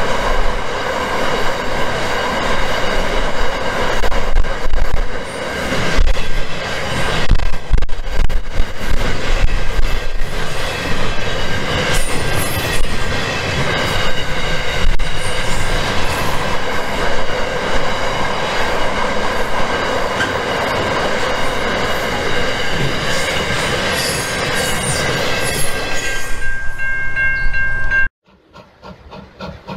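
Loaded iron ore train's wagons rolling past on steel rails: a steady rumble and clatter of wheels, with high steady squealing tones from the wheels over it. The sound cuts off suddenly about two seconds before the end.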